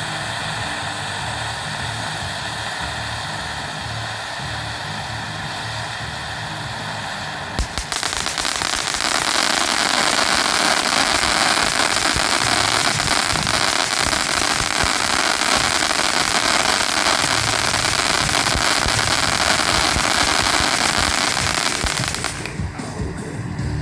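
Fireworks going off: after a steady hiss, a sharp bang about eight seconds in starts a long, dense crackling that runs for about fifteen seconds and dies down near the end.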